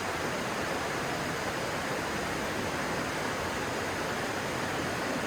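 Stream water rushing steadily, an even unbroken hiss.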